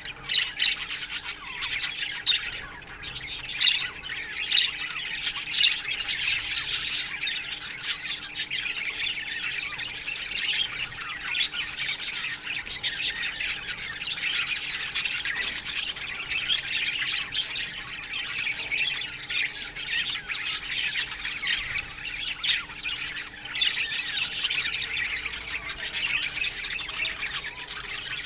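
A colony of budgerigars chirping and chattering together in an aviary, a dense, continuous mix of many overlapping squawks and warbles. A faint steady hum sits beneath.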